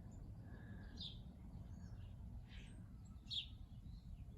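Faint birds chirping: a few short calls, the clearest about a second in and again past three seconds, over a low steady background rumble.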